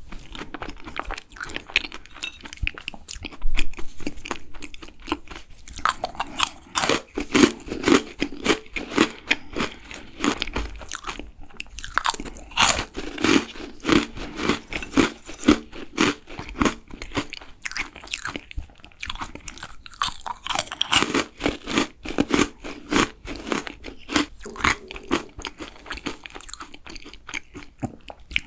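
Close-miked eating: biting into and chewing food with crisp crunching and wet mouth sounds, in a steady rhythm of about two chews a second.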